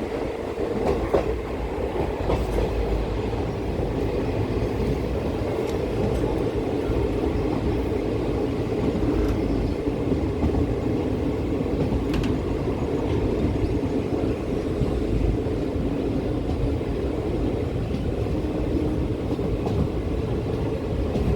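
Moving passenger train running at steady speed: a continuous rumble of wheels on the rails, with a few sharp clicks.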